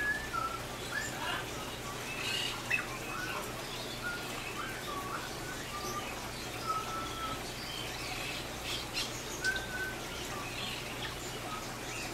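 Small birds chirping: short scattered whistled notes, some gliding up or down, over a steady low hum.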